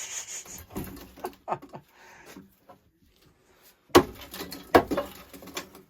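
Scattered small knocks and scrapes, then two sharp loud knocks with a short ring about four and five seconds in, as the old cast iron steam boiler is being taken apart.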